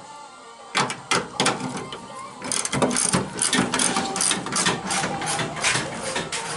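Ratchet wrench clicking rapidly as a radiator bolt is turned out, starting about a second in.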